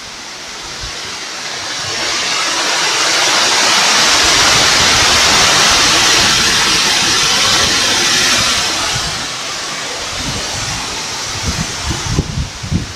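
Hailstorm with strong wind: a loud rushing of hail and rain that swells over the first few seconds, holds, then eases about nine seconds in. Wind buffets the microphone near the start and the end.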